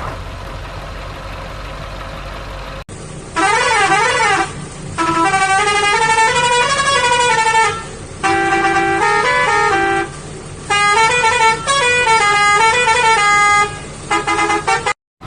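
Musical vehicle horn playing a tune: phrases of stepped and sliding notes with short breaks between them, starting about three seconds in. Before it, only a steady low rumble.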